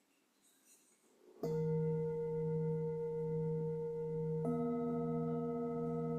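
Singing bowls struck and left ringing: the first starts about a second and a half in with a steady, pure multi-note ring, and a second bowl joins with new notes about three seconds later.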